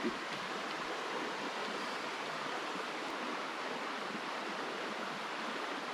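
Steady, even rushing outdoor background noise with no distinct events in it.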